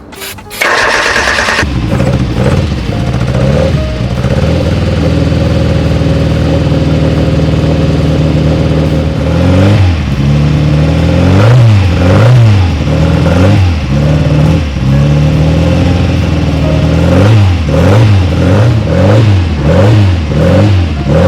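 Fiat Abarth 1000 Bialbero's twin-cam four-cylinder engine fires up about half a second in and runs steadily. From about ten seconds in it is blipped over and over, the revs rising and falling about once a second.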